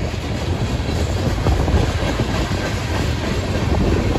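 Freight train cars, tank cars and covered hoppers, rolling past: a loud, steady rumble of steel wheels on the rails.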